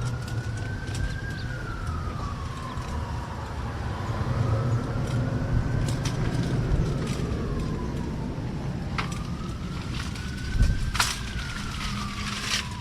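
Emergency-vehicle siren wailing, slowly rising and falling in pitch about every five seconds. A few sharp clicks sound over it, the loudest a crack with a low thump near the end.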